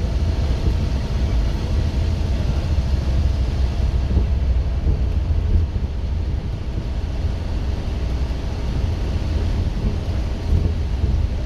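Scania K230UB OmniLink bus's diesel engine running hard under load, a loud, steady low drone, heard from on board.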